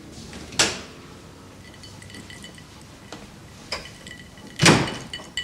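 Glasses or crockery being handled and set down: two sharp knocks, the louder near the end, among small clinks and faint high ringing.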